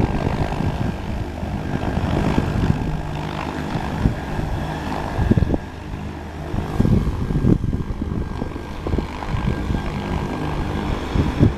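Propeller-driven light airplane's piston engine running steadily at the airfield, a continuous drone with an even propeller tone.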